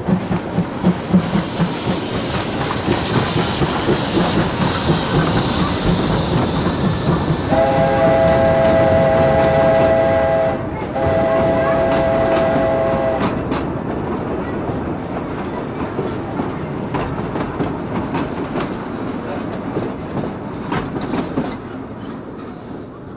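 Passenger train passing close by: a steady rumble with the clickety-clack of wheels over rail joints. About seven seconds in, the train horn sounds a chord in two long blasts with a short break between them. The rumble slowly fades toward the end.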